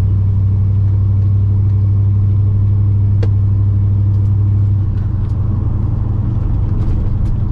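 Chevy C10 square-body pickup driving, its engine and road noise a steady low drone that eases slightly about five seconds in. A single short click about three seconds in.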